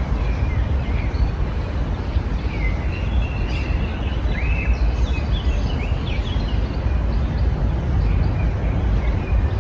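Small garden birds chirping and twittering, a quick run of short whistled notes busiest in the middle, over a steady low rumble.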